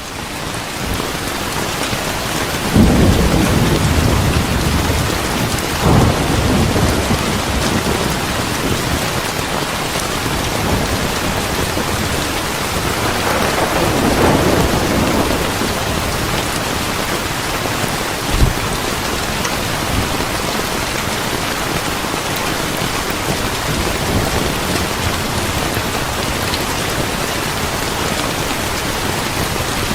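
Steady heavy rain with thunder. A low rumble of thunder swells about three seconds in, again around six seconds and near the middle, and a short sharp thump comes a few seconds later.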